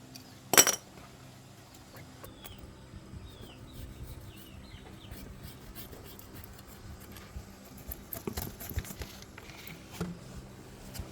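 Metal clinks and clatter of tools and engine parts being handled, with one sharp clank about half a second in and a busier run of rattles around eight to nine seconds in. Faint bird chirps a few seconds in.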